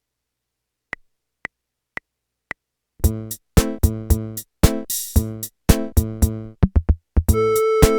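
Casio Tone home keyboard auto-playing a ROM pack song. Four click count-in beats half a second apart lead into a drum-machine rhythm with bass and chord accompaniment, and a sustained melody line comes in near the end.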